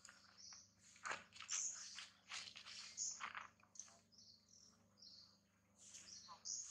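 Faint bird chirps: short, high-pitched notes repeating irregularly, mixed with light clicks and rustles.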